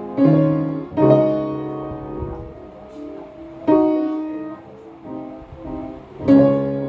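Background piano music: slow chords struck every second or few, each ringing and fading before the next.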